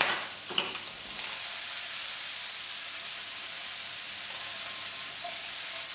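Prawns and squid rings frying in olive oil in a frying pan, a steady sizzle. Two light clicks come in the first second.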